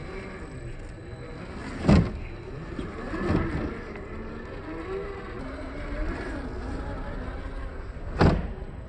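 Electric drive motor and gears of a 1/8-scale RC rock crawler whining, the pitch wavering up and down with the throttle. Two sharp knocks stand out, one about two seconds in and one near the end.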